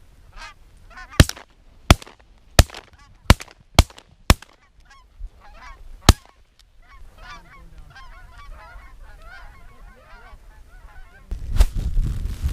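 A volley of seven sharp shotgun shots in quick succession over the first six seconds, fired by several hunters at incoming Canada geese, amid the geese's honking; the honking continues after the shooting, and a loud rushing noise starts near the end.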